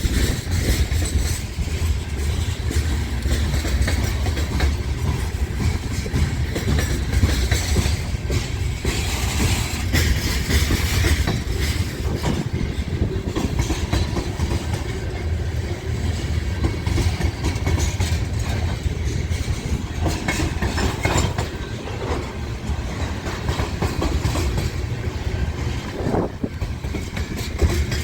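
Freight train rolling past with a steady low rumble, its wheels clicking over the rail joints.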